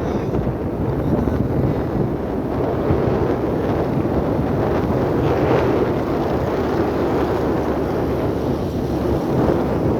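Wind blowing across the microphone: a loud, steady rush of noise with no distinct tones.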